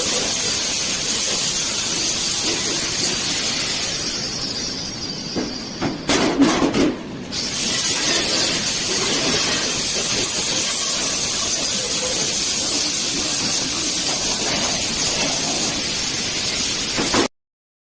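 Angle grinder grinding welds on a steel handcart frame: a steady grinding noise that lets up for a couple of seconds about six seconds in, with a few knocks, then resumes and stops abruptly near the end.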